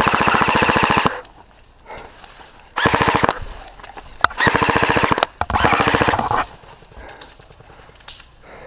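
Airsoft rifle firing full-auto in four rapid bursts of evenly spaced shots, the longest lasting over a second and the shortest about half a second.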